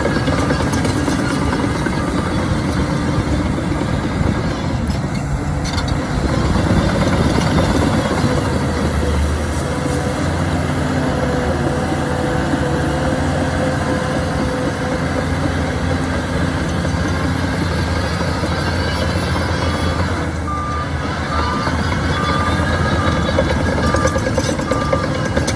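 Shantui bulldozer's diesel engine running under load, rising in pitch for a few seconds partway through. Near the end a reversing alarm beeps in a steady series, warning that a machine is backing up.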